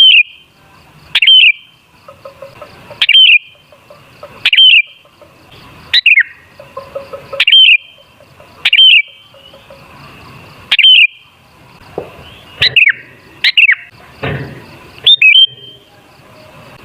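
Sooty-headed bulbul calling: short, loud, bubbling whistled phrases, each rising then falling, repeated about every one and a half seconds, with a quick double phrase near the end.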